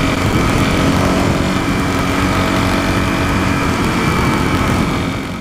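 Dual-sport motorcycle engine running steadily under way, with a steady rush of noise beneath it.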